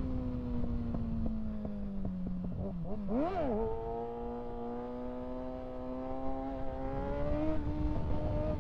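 Kawasaki ZX-6R 636 inline-four engine heard from the bike: the engine note eases down for the first few seconds, rises and falls quickly once about three seconds in, then holds and climbs slowly as the bike pulls again.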